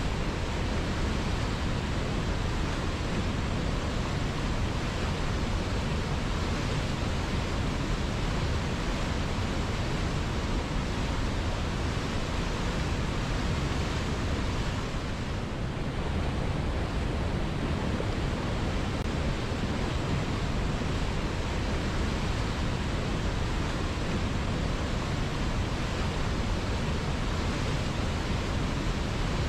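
River water flowing, a steady rushing that dips slightly for a moment about halfway through.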